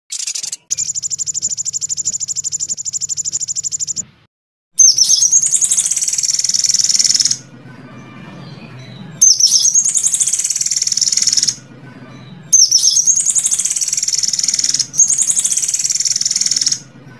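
Recorded songbird calls from a song-tutor recording for competition birds: a fast, even, high trill for about three seconds, then after a short gap the same high, warbling phrase played four times over, each about two seconds long.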